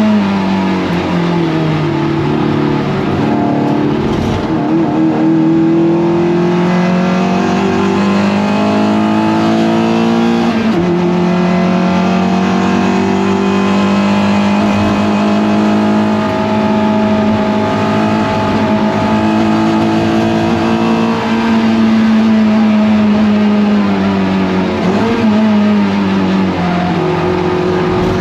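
Toyota MR2 race car engine running hard at racing speed, a strong steady tone whose pitch dips and climbs back a few times, with faint tyre squeal.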